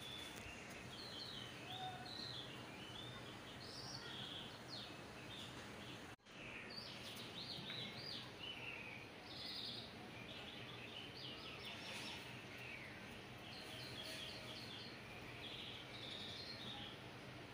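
Small birds chirping faintly and repeatedly over a steady background hiss. The sound drops out briefly about six seconds in.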